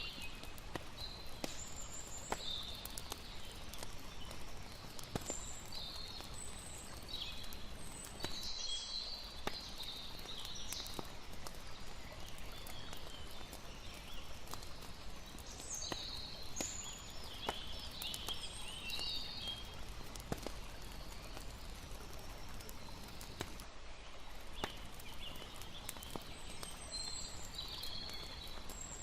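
Layered night ambience: a campfire crackling with scattered sharp snaps over a steady wash of flowing water, with short high chirping calls coming and going throughout.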